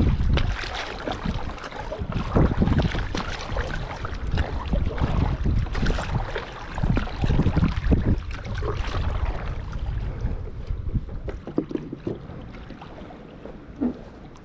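Water splashing and sloshing around a kayak moving along on the sea, with wind rumbling on the microphone; it quietens over the last few seconds.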